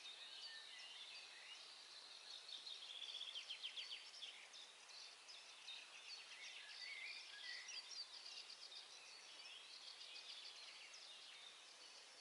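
Faint dawn chorus: many songbirds singing and chirping over one another, with a rapid trill about three seconds in.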